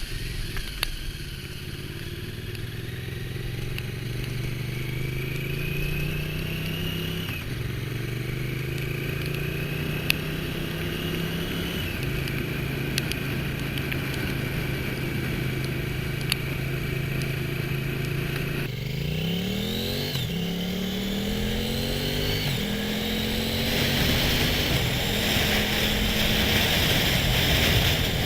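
Motorcycle engine running at road speed, its note holding steady with shifts in pitch. About two-thirds through the sound changes abruptly, the engine revs up as the bike accelerates, and wind rush grows louder near the end.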